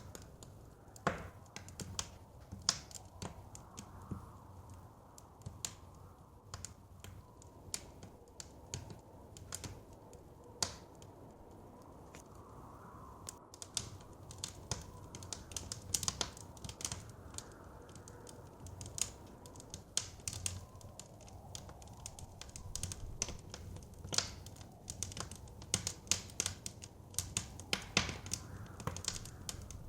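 Wood fire crackling, with irregular sharp pops and snaps that come thicker in the second half, over a soft steady rush of blizzard wind.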